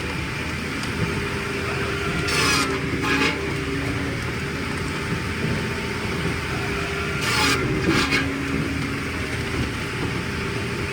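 Engine-driven machinery running steadily, with four brief high scraping bursts over it: about two and three seconds in, and twice more around seven and eight seconds in.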